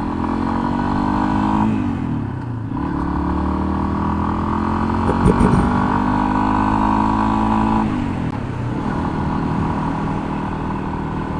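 Yamaha XT250 single-cylinder engine pulling under throttle. Its pitch climbs, breaks for a gear change about two seconds in, climbs again, then drops near eight seconds in and runs on at a lower pitch. There is a short clatter about five seconds in.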